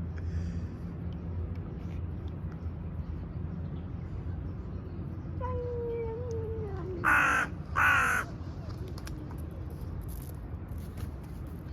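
A cat meows once, a long call sliding down in pitch, followed by a crow cawing twice, two loud harsh calls about half a second apart, over a steady low background hum.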